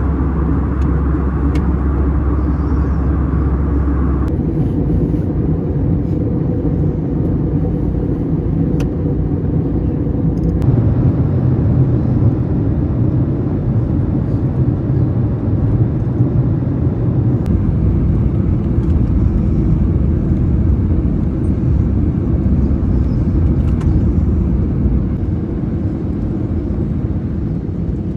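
Steady low vehicle rumble. Its character changes abruptly about 4 seconds in and again about 11 seconds in, like cuts between separate recordings.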